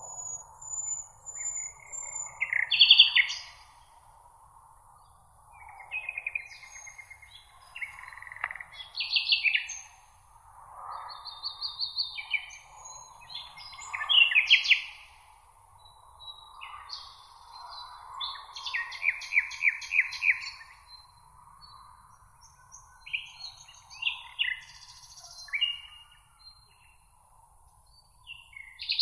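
Several songbirds singing in overlapping phrases of chirps and rapid trills, one after another with short gaps, over a steady high hiss.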